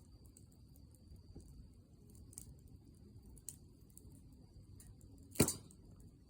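Wood fire burning with sparse faint crackles and one loud sharp pop a little past five seconds in.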